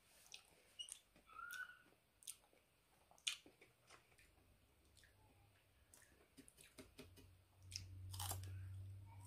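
Faint mouth sounds of someone eating mango: irregular wet clicks and smacks of chewing, with a brief squeak about a second and a half in. A low hum comes up near the end.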